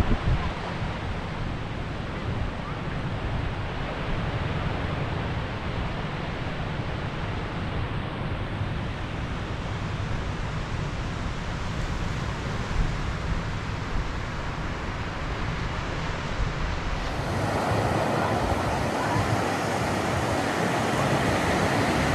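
Sea surf washing on a sandy beach, with wind gusting on the microphone. There is a brief knock right at the start, and the surf grows louder about seventeen seconds in.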